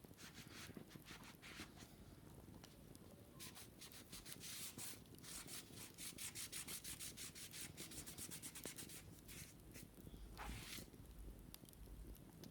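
Wicker basket being scratched or scrubbed in quick, even strokes, about five a second through the middle, then one longer stroke near the end.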